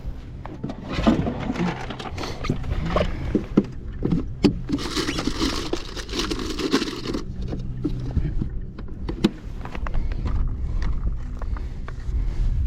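Wind rumbling on the microphone aboard a kayak, with scattered knocks and scrapes of gear handling and, in the middle, a rushing hiss lasting about two seconds.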